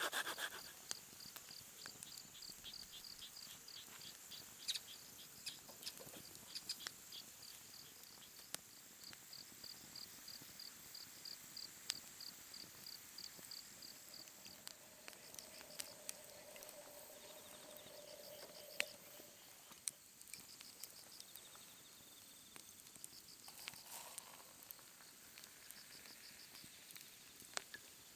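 Crickets or other autumn insects chirping faintly, a regular run of high chirps for the first half that thins out and comes back in shorter spells later, with scattered sharp clicks.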